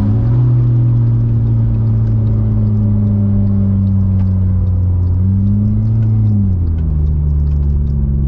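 Volkswagen Golf 6R's engine running at a steady note with no drive to the wheels while the car coasts after losing throttle response, a problem the passenger takes for a failed gearbox. The note swells and falls back briefly about five seconds in, then drops lower near the end.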